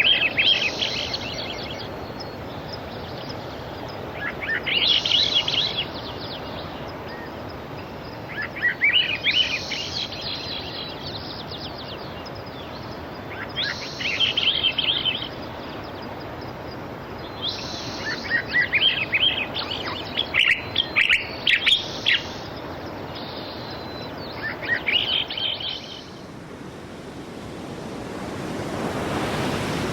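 A songbird sings short, rapid trilling phrases about every four seconds, with a longer run of calls around the middle, over a steady wash of sea surf. The birdsong stops about four seconds before the end, and the surf swells louder.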